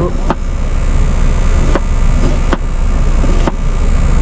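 A knife chopping on a cutting board: about four separate sharp knocks, spaced unevenly, over a steady low rumble.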